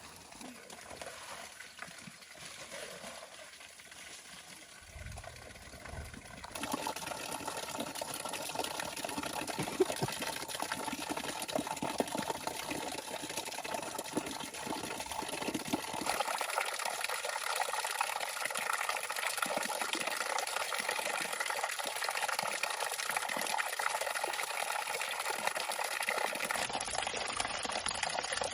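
Running water: a steady rush of water that comes in louder about six seconds in and changes suddenly twice, as if cut between takes.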